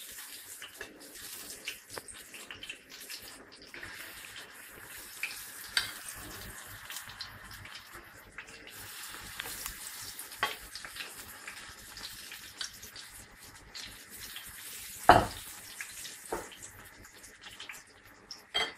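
Small shrimp fritters (tortillitas de camarones) frying in hot oil in a frying pan: a steady sizzle with scattered pops. A sharp knock stands out about fifteen seconds in.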